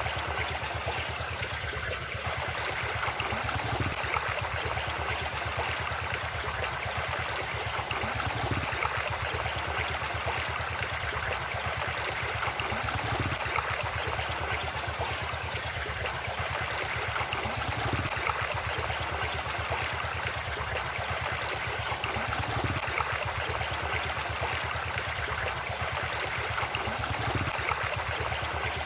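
River water flowing steadily over rocks, a continuous rushing and trickling.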